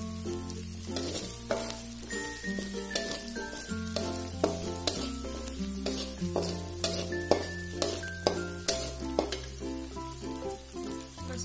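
Ground spice paste sizzling in hot oil in a metal wok while a metal slotted turner scrapes and taps against the pan, the paste being sautéed until cooked and fragrant. Background music with a slow-changing bass line plays under it.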